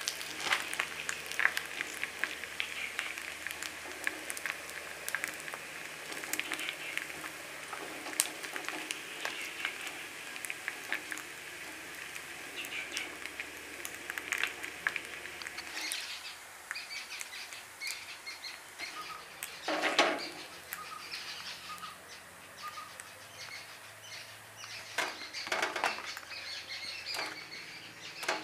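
Appams frying in coconut oil in an appa pan, a steady crackling sizzle with many small pops. About halfway through the sizzle stops and birds are heard chirping, with two brief louder noises.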